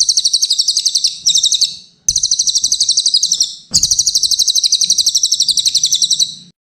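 Brown cililin singing a loud, high-pitched, rapid trilling song of fast repeated notes. It comes in three long phrases separated by short breaks.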